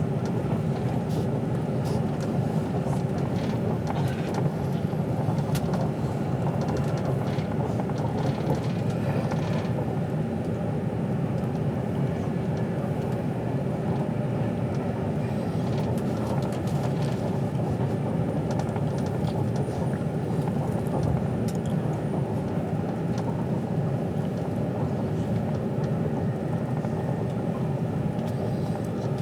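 Inside the carriage of a moving Avanti West Coast express train: a steady rumble of the running train, with a constant hum and occasional faint clicks.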